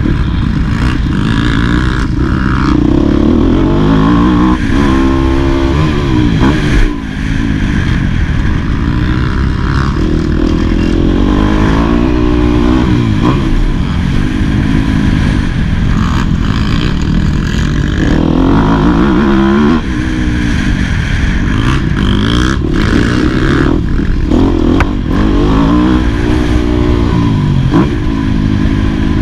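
2018 Yamaha YZ250F's single-cylinder four-stroke engine revving up and falling back over and over as the motocross bike is ridden, its pitch climbing and dropping with the throttle and gear changes; the sound briefly drops about 7 and 20 seconds in.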